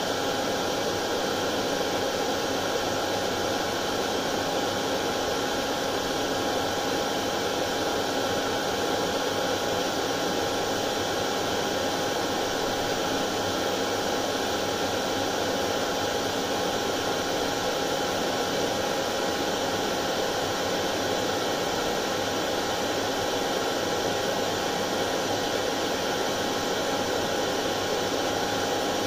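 Hair dryer running steadily: a constant rush of blown air with a steady whine from its motor, unchanging throughout.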